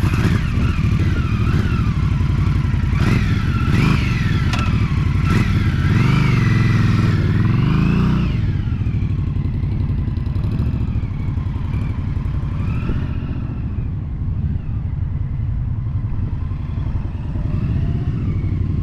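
Indian Scout V-twin motorcycle engine running under way, its pitch rising and falling with the throttle for the first eight seconds or so, then settling to a steadier, slightly quieter run.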